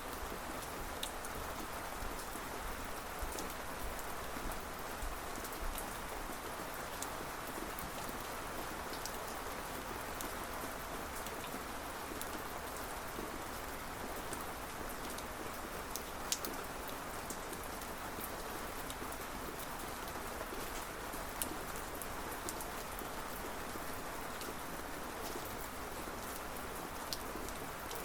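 Steady rain falling on a surface, with individual drops ticking sharply here and there over the even hiss; a couple of louder drop hits come about midway.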